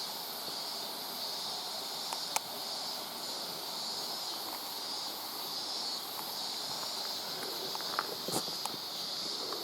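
Steady, high-pitched insect chorus over the hiss of water running along the trail, with a few scattered clicks and footfalls from walking on the wet path, the loudest about two seconds in and near the end.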